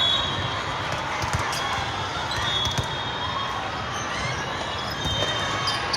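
Indoor court gym during a game: a ball thudding on the hardwood floor, sneakers squeaking in short chirps, and a steady murmur of voices echoing in the large hall.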